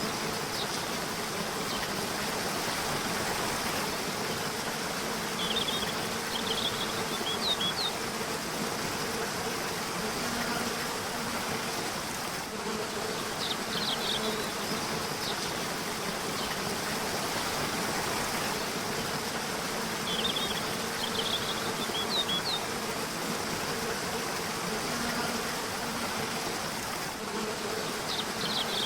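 River water running steadily, with short clusters of high bird chirps about every seven seconds and a faint steady low hum beneath.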